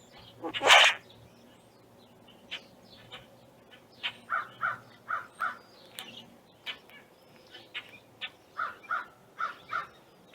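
Backyard birds calling: one loud call about half a second in, then, from about four seconds, a run of short calls, many in close pairs.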